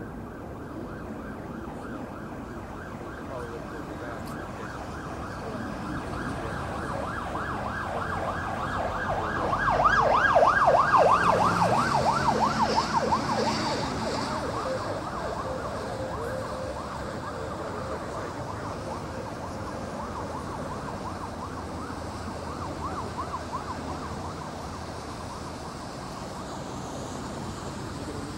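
Emergency vehicle siren with a fast up-and-down yelp, growing louder, loudest about ten seconds in, then fading as it moves off, over a steady rumble of street traffic.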